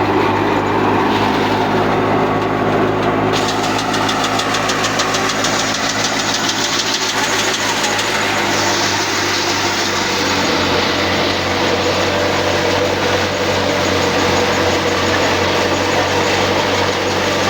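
Al-Ghazi tractor's diesel engine running steadily under load. A fast, even high-pitched clatter comes in about three seconds in and fades out around eight seconds.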